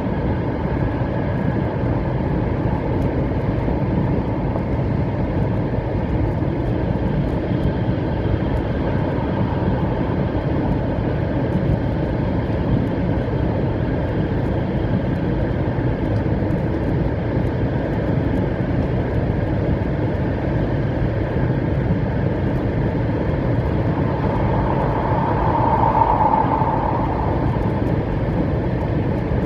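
700 series Shinkansen running steadily, heard inside the passenger car: an even rumble of wheels and rail, with a brief tone swelling and fading near the end.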